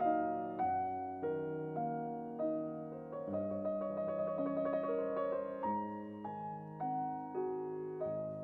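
Background music: a slow, gentle piano piece, notes struck about twice a second and left to fade.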